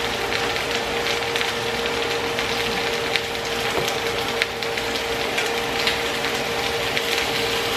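Boneless, skinless chicken thighs sizzling as they brown in a hot pan, a steady hiss dotted with many small pops and crackles. A steady hum runs underneath.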